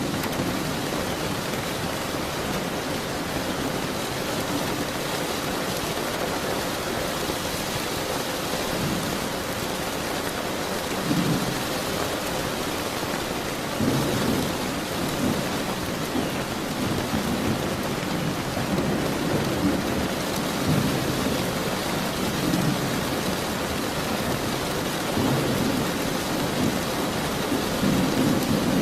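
Steady heavy rain with low rolling thunder rumbling in and out several times.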